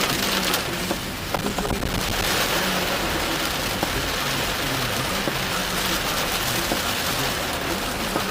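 Heavy rain falling on a car, heard from inside the cabin as a steady hiss, with a few sharp ticks of drops about a second in.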